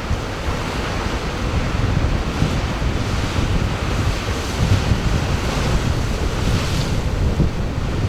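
Sea surf washing and hissing, with one wave's wash swelling louder near the end, under wind buffeting the microphone with a rumble.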